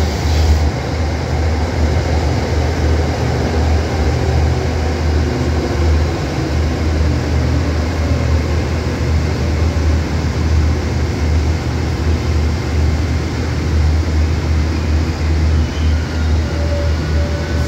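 Train standing at a signal with its engine or machinery running: a loud, steady low rumble that does not change.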